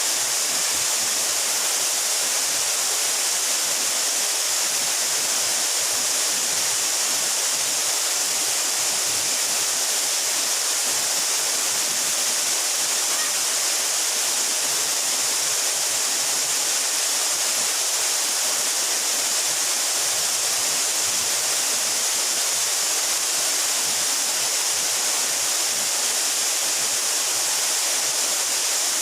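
Steady rushing hiss of a mountain waterfall about 12 metres high, even and unbroken, heavy in the high range with little low rumble.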